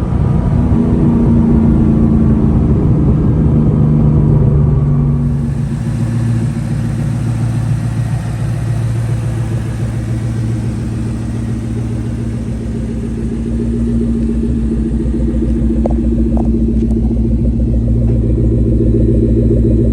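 2004 SVT Cobra's Whipple-supercharged 4.6 L V8 running through its Borla exhaust, a steady, even low rumble from the exhaust. The sound changes character about five seconds in and stays steady after that.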